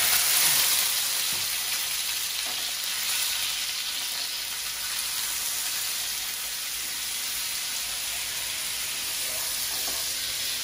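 Onion paste sizzling in hot oil in a frying pan while being stirred with a wooden spatula. The sizzle is loudest in the first second, as the paste hits the oil, then settles into a steady hiss.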